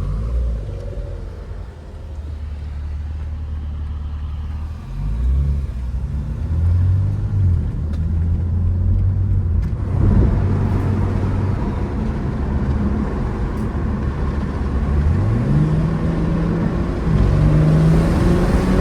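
BMW M3 Competition's twin-turbo inline-six engine running under way, with tyre and road noise. The engine note steps up about five seconds in, then climbs steadily in the last few seconds as the revs rise under acceleration.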